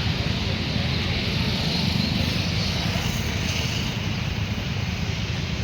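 Motorcycle engines running at idle: a steady low rumble.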